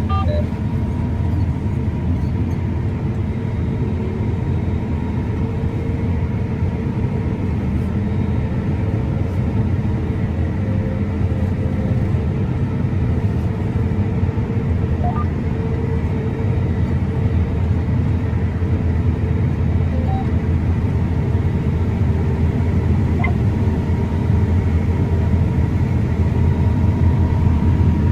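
John Deere S780 combine with a stripper header running steadily while harvesting: a continuous low drone with a faint steady whine over it, growing slightly louder near the end.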